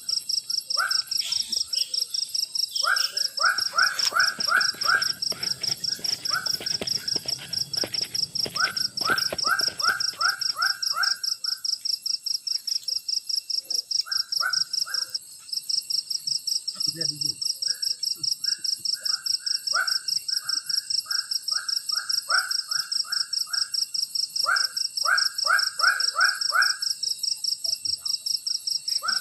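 Tropical forest ambience: a steady, high-pitched, fast-pulsing insect trill runs throughout. Over it come runs of short, repeated mid-pitched animal calls, several notes a second. Scattered clicks and knocks sound between about 3 and 11 seconds in.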